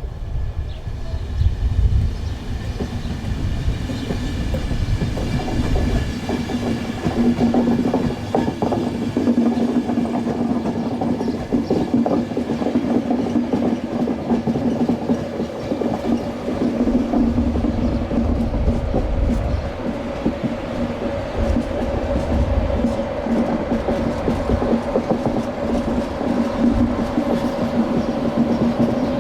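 A train running past for the whole stretch, its wheels clacking over the rail joints, with a steady low hum beneath the clatter.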